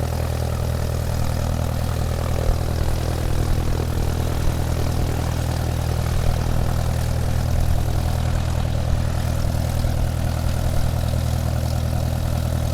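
Small motor spinning the propeller of a homemade model airplane, running at a steady speed with an even hum.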